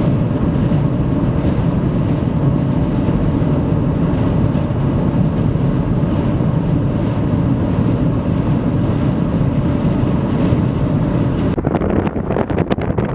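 Strong wind gusting at 50-60 mph, a loud steady rumble across the microphone. Near the end it turns patchier and gusty, buffeting the microphone.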